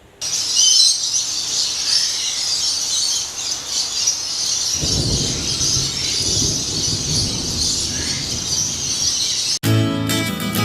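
A dense chorus of many birds chirping and calling at once, high-pitched and continuous, with a low rumble joining about halfway through. It cuts off abruptly near the end, giving way to acoustic guitar music.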